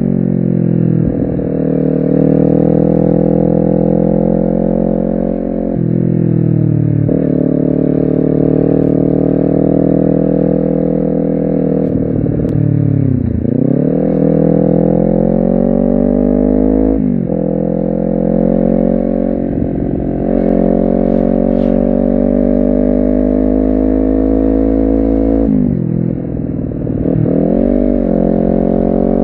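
Honda CBR250RR engine pulling under throttle, its pitch slowly climbing. Several times the revs drop sharply and then pick up again, like gear changes and throttle lifts, with one deep dip and recovery a bit before the middle.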